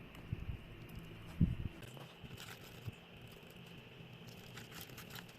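Slime being stirred and worked in a bowl while activator is mixed in: faint sticky clicks and scraping, with a low knock about a second and a half in and more clicks near the end.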